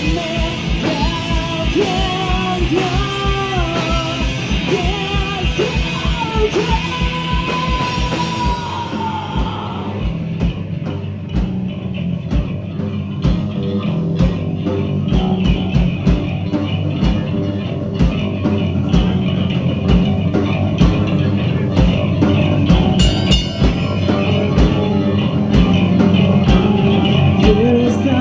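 Live rock band playing: drum kit with a steady kick drum, bass and electric guitars. A sung melody rides on top for about the first nine seconds, then the band carries on instrumentally, growing a little louder toward the end.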